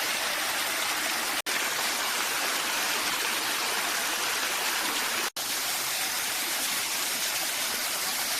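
Waterfall's water rushing in a steady, even hiss, cutting out for an instant twice, about one and a half and five seconds in.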